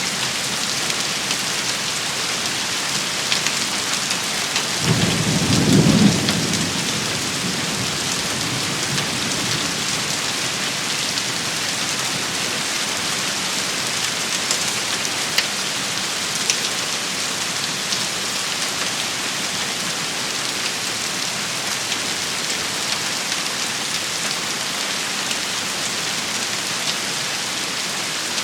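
Steady heavy rain shower, an even hiss with scattered drop hits. A short low rumble of thunder comes about five seconds in and dies away within two seconds.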